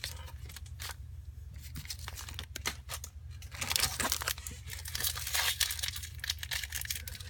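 Tearing and crinkling of trading cards and pack material: scattered light clicks and crinkles at first, then a steady stretch of ripping and rustling over the last three and a half seconds, over a low steady hum.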